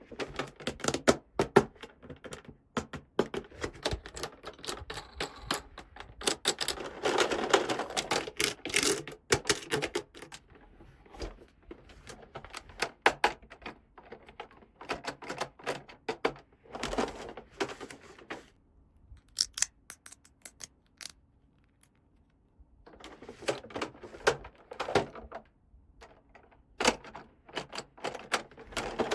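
Small plastic toy pieces being handled and unpacked, with many sharp clicks and taps and a stretch of rustling a few seconds in. It goes nearly quiet for a few seconds past the middle.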